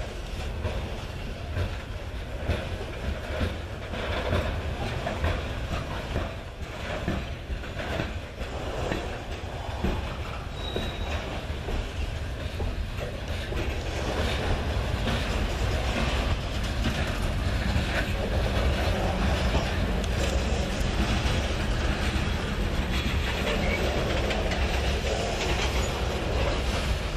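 Freight train of open-top coal hopper cars rolling past at close range: a steady rumble of steel wheels on the rail, with a run of clicks and knocks from the wheels in the first half and a steadier, slightly louder rumble after.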